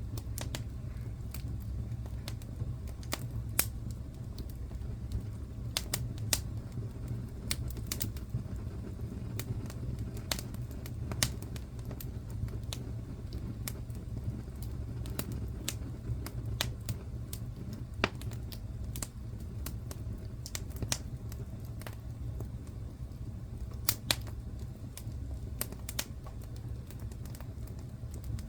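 Wood fire in a fireplace crackling: irregular sharp pops and snaps, a few standing out louder, over a steady low rumble of burning.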